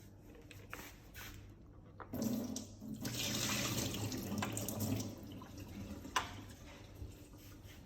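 Water pouring and splashing into a sink for about three seconds as the coffee machine's full drip drawer is emptied. A few light clicks come before it and a sharp knock about six seconds in, from the parts being handled.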